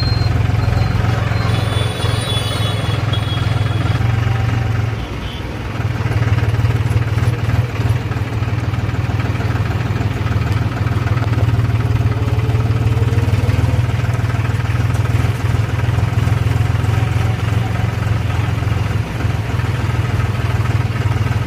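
Powertrac Euro 45 Plus 4WD tractor's diesel engine running steadily under way, a deep continuous drone that dips briefly about five seconds in.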